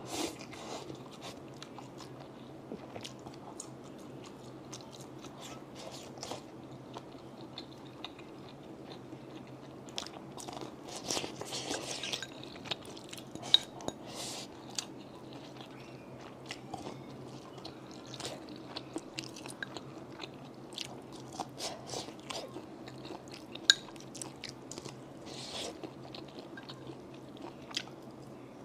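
A person chewing and crunching food close to the microphone, with scattered crisp bites and wet chewing clicks over a faint steady low hum.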